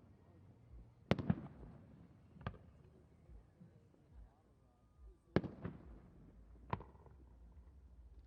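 Fireworks shells bursting in sharp bangs at uneven gaps: a quick pair about a second in, a single bang soon after, then another pair and a last bang in the second half.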